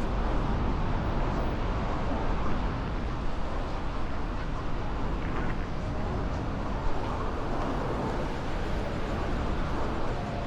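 Steady city street ambience: a continuous rumble of traffic with no single sound standing out.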